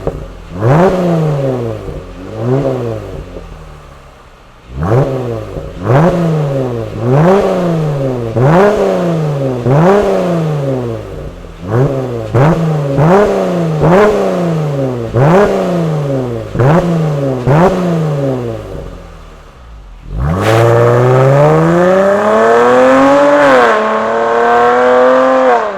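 Dodge Challenger 3.6-litre V6 with an aftermarket tuned exhaust, revved repeatedly at a standstill in about a dozen quick throttle blips, each rising sharply and falling back. Near the end the engine is held at high revs, with one brief dip before it climbs again.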